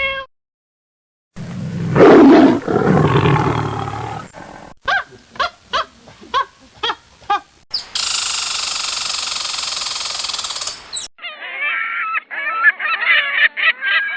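A string of different animal sound clips cut one after another: a loud, deep, rough roar, a quick run of short repeated calls, about three seconds of a harsh, hissing blast, then a stretch of quick, high chattering calls that bend up and down in pitch.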